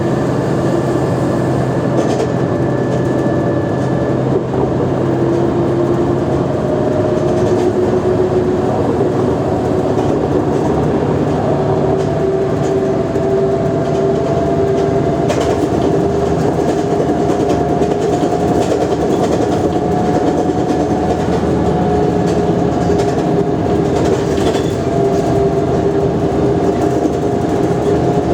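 Mercedes-Benz O345G articulated city bus under way: its diesel engine and driveline run with a steady rumble and a whine that slowly climbs in pitch.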